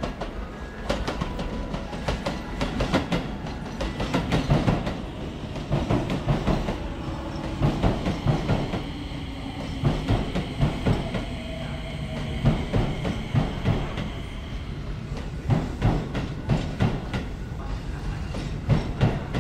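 Keio Line electric train running on the track, its wheels clacking over rail joints in uneven clusters of knocks over a steady rumble, with a faint high whine for several seconds midway.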